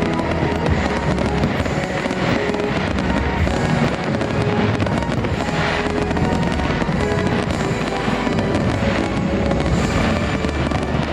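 Fireworks bursting in quick succession over the show's music.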